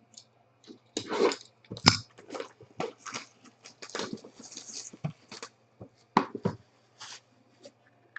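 Crinkling, tearing and rustling of packaging as a sealed box of trading cards is opened: a run of irregular short crackles.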